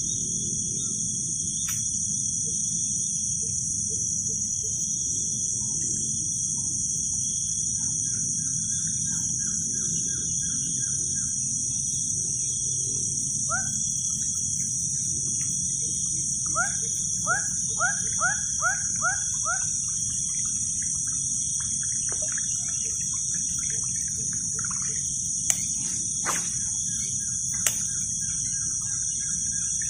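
Outdoor ambience with a steady high-pitched insect drone and a low rumble, over which a bird gives a quick series of about seven rising calls near the middle. A few sharp clicks come near the end.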